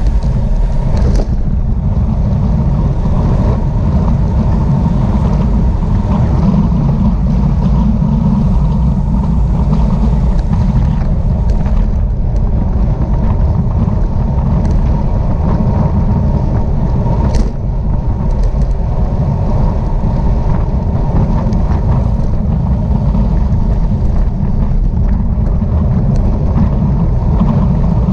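Steady wind and road rumble on the microphone of a camera riding along in a bicycle race, a continuous low roar with a few faint ticks.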